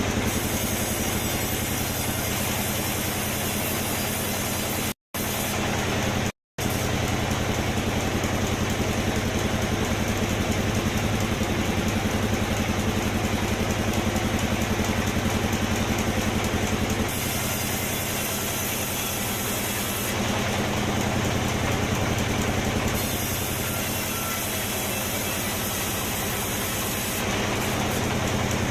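Sawmill machinery running steadily with a low, even engine-like hum, cut off completely twice for a moment about five and six and a half seconds in.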